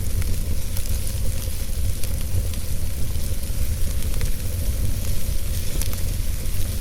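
Wood fire burning in a fireplace: a steady low rumble of flames with an even hiss and scattered small crackles and pops of the burning wood.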